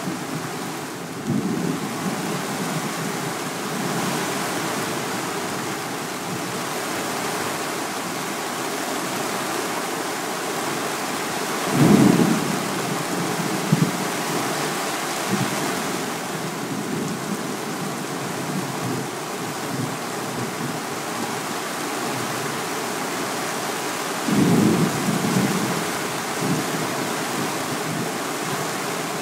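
Heavy thunderstorm rain pouring steadily on a greenhouse. Two brief louder bursts break through, about twelve seconds in and again about twenty-four seconds in.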